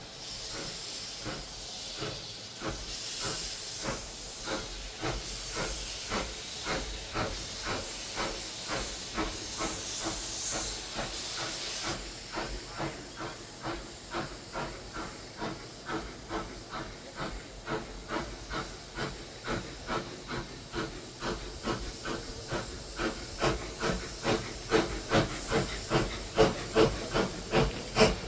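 Steam locomotive working hard, its chuffing exhaust beats steadily quickening and growing louder toward the end. A hiss of escaping steam runs over the beats for the first twelve seconds or so, then stops.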